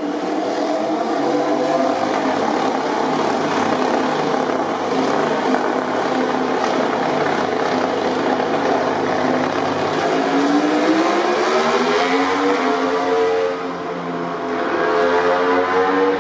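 MotoGP racing motorcycle engines running loud at high revs. About ten seconds in, the pitch climbs as a bike accelerates, drops briefly, then climbs again near the end.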